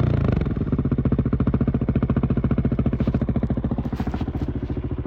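Husqvarna 701 Supermoto's single-cylinder engine idling through a LeoVince exhaust with the dB-killer fitted, an even rapid pulse. It settles to idle in the first moment after a blip of the throttle.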